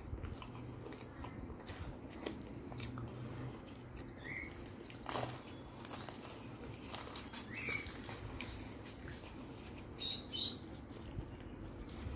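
Close-up eating sounds: soft chewing and small mouth noises as luchi and potato curry are eaten by hand, with fingers dipping into the curry bowl. A few short high chirps come about four and eight seconds in, and a louder pair near ten seconds.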